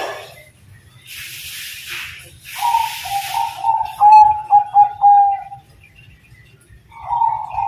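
Zebra dove (Bangkok-type perkutut) cooing: a phrase of short notes running into a broken, longer note about halfway through. A new phrase starts near the end. Short bursts of hiss come before the first phrase.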